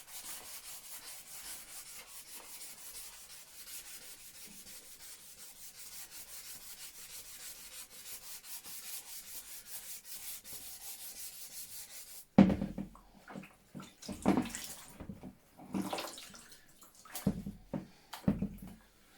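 Fast rhythmic rubbing, heard as a steady hiss, for about twelve seconds; it stops abruptly and is followed by several sharp knocks and clunks of parts being handled.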